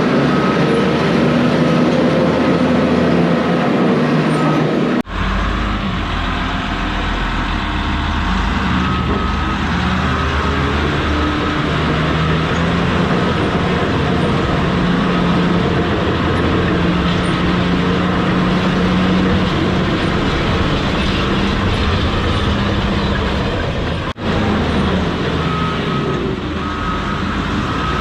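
Heavy diesel earthmoving machine running steadily under load, with mechanical clatter. The sound drops out abruptly and briefly twice, about five seconds in and near the end.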